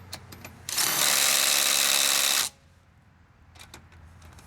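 Ridgid subcompact brushless impact driver hammering a wheel lug nut tight in one burst of just under two seconds. It starts and stops abruptly, with a few metal clicks from the socket before and after.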